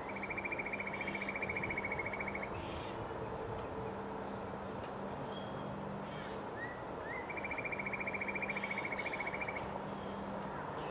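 A bird singing a rapid, even trill about two seconds long, twice, each time led by a short rising note, over steady wind noise and a low hum.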